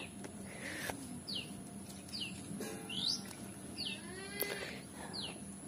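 Birds calling: about five short, high chirps, each falling in pitch, roughly one a second, with a lower call twice in the middle.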